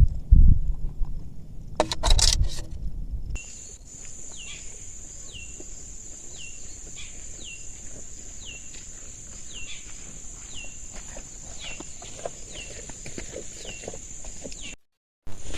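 Forest ambience: a steady high-pitched insect drone, with a bird repeating a short falling call over and over. The first few seconds hold low thumps and rustling instead, and the sound cuts out briefly near the end.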